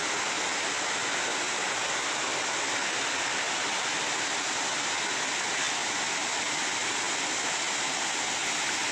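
A tall waterfall crashing down, a steady, even rush of falling water.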